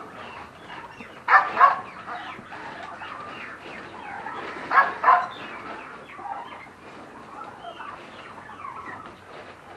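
Chickens clucking, a steady chatter of short calls, broken twice by a loud double squawk, about a second and a half in and again about five seconds in.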